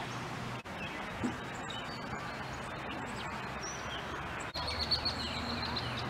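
Small birds chirping over a steady outdoor background hiss, with scattered short high chirps and one thin, held high note near the end.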